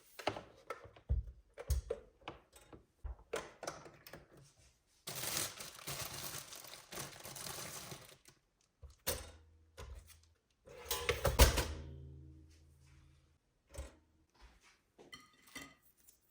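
Handling sounds of objects being moved and set down: a string of light knocks and clicks, a few seconds of rustling noise, then a louder clatter about eleven seconds in with a short low hum after it.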